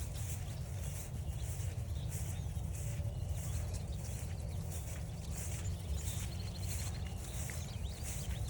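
Footsteps on a forest trail, about two steps a second, with a short bird trill a little after the middle.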